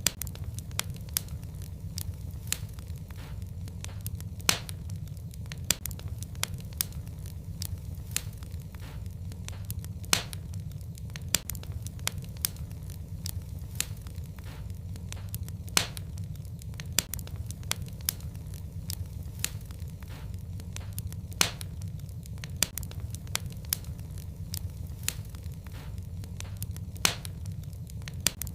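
Wood fire burning in a fireplace: irregular sharp crackles and pops over a steady low sound of the flames, with a louder pop every few seconds.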